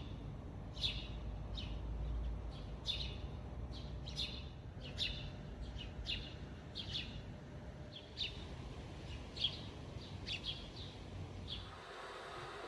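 A small bird calling repeatedly with short, sharp chirps that drop in pitch, one or two a second, over a low steady rumble of outdoor noise. The chirping stops about twelve seconds in.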